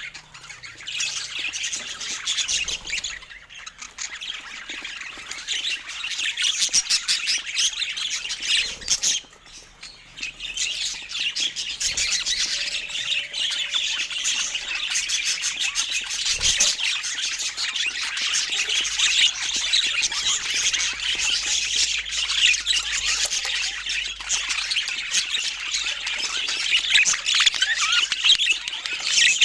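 Budgerigars chattering, a dense run of fast warbling chirps and squawks with a brief lull about nine seconds in.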